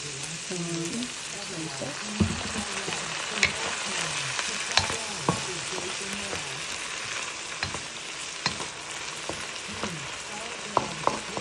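Fried-rice ingredients sizzling in a hot pan as they are stirred, with the spatula knocking against the pan now and then, sharpest about two seconds in and near the end.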